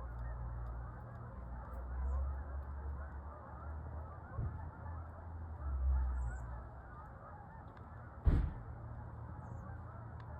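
Large flock of Canada geese honking high overhead, many calls overlapping into a continuous chorus, over a low rumble. A single sharp thump about eight seconds in.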